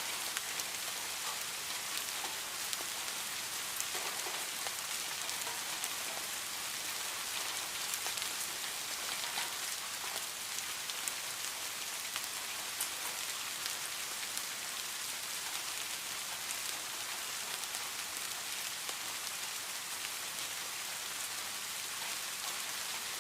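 Steady heavy rain: a dense, even hiss of falling rain with many fine drop ticks on surfaces.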